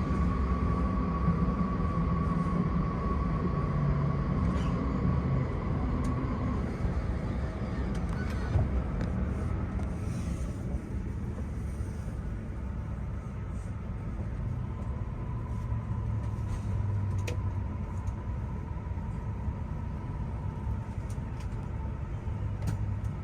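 Cabin rumble of a Tohoku Shinkansen train running on the line, heard from inside the car. A thin whine cuts off about six seconds in, and the rumble grows slowly quieter after that.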